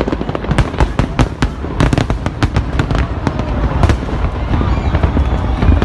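Aerial fireworks display: many shells bursting in rapid, overlapping bangs and crackles over a continuous low rumble.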